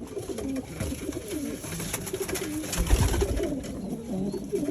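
Several domestic pigeons cooing together in a loft, overlapping low warbling coos, with a few knocks about three seconds in.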